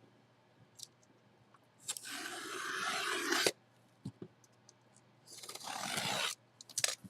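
Two long rasping scrapes of a cardboard jersey box being opened. Each grows louder and then stops suddenly, with a few small clicks between them.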